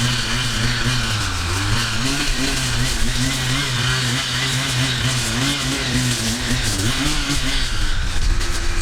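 Small petrol engine of yard-clearing equipment running steadily, its pitch wavering up and down.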